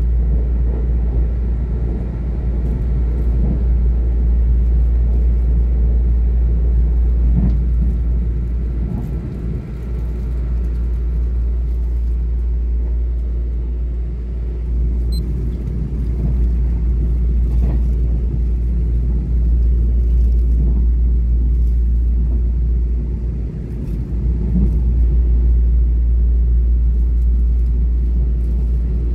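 Running noise of a moving train heard from inside the passenger car: a steady low rumble of wheels on rail, with a faint steady tone above it and a few light clicks. The rumble dips briefly twice.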